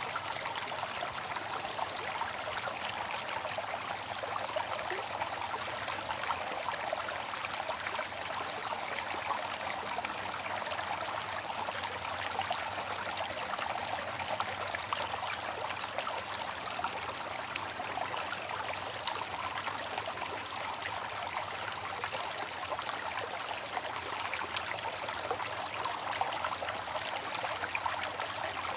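Water fountain splashing and trickling steadily, an even rush of falling water with no breaks.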